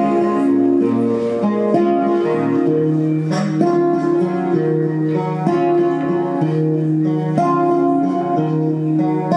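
Acoustic guitar playing an instrumental passage of a song: plucked notes and chords ringing on and changing every half second or so.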